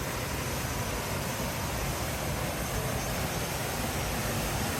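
Waterfall: the steady, even rushing of falling water.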